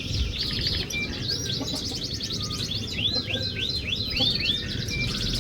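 Canary singing a fast, varied song of rapid trills and clear whistled notes, including a quick run of about six rising-and-falling notes past the middle, over a steady low background noise.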